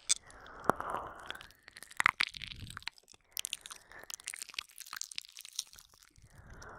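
Close-up wet mouth sounds from ASMR ear licking and nibbling: irregular sharp smacks, clicks and licks with a few soft breathy swells.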